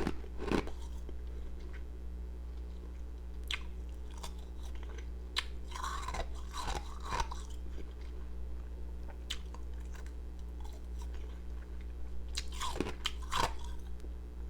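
Ice pieces being bitten and crunched between the teeth, close to the microphone: scattered sharp crunches, with denser bursts of chewing about halfway through and again near the end. A steady low hum runs underneath.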